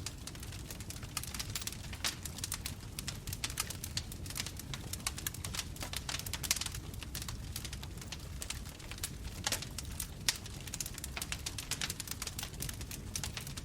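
Bonfire crackling: rapid, irregular snaps and pops of burning wood over a steady low rumble of flames, with two louder pops about six and a half and ten seconds in.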